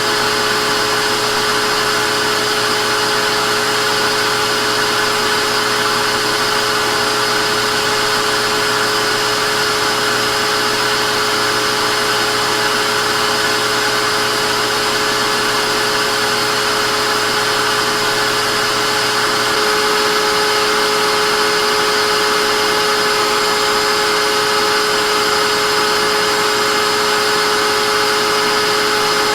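Vacuum cleaner running continuously: a steady rushing hiss with a motor whine over it. About two-thirds of the way through, the low hum drops away, a higher whine tone comes in and the sound gets slightly louder.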